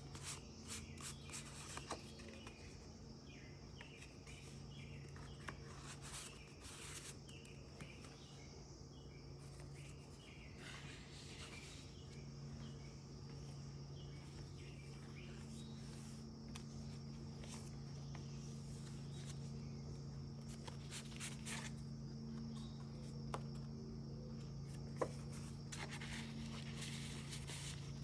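Paper pages of a handmade junk journal being handled and turned, with soft, irregular rustles and crinkles over a steady low hum.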